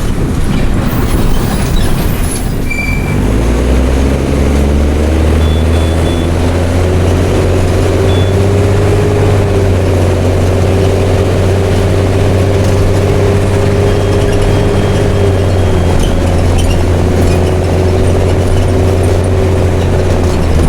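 Mercedes-Benz OM366LA turbo-diesel inline-six of a city bus running through an open, straight-through exhaust, pulling away: its note rises over several seconds from about three seconds in, then holds steady under load, easing slightly about fifteen seconds in.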